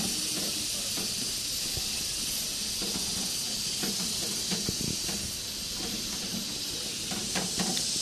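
Steady background hiss, with soft, scattered clicks and knocks from chicken pieces being mixed into a spice-paste marinade in a bowl.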